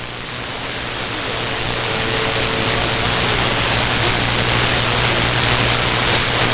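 CB radio receiver static: an even hiss that swells steadily louder, with a steady low hum underneath.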